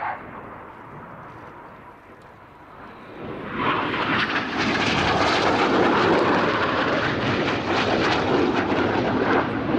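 Jet noise of BAE Hawk T1 trainers with Rolls-Royce Turbomeca Adour turbofans, swelling sharply about three and a half seconds in to a loud, steady roar as the jets pass close.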